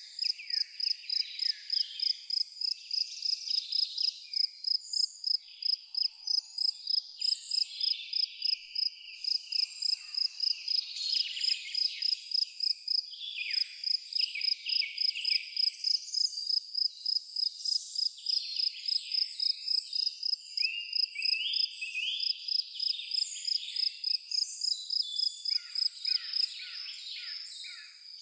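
Natural outdoor ambience: an insect, likely a cricket, chirps with a steady high pulse about three times a second. Over it, many birds give short varied chirps and calls.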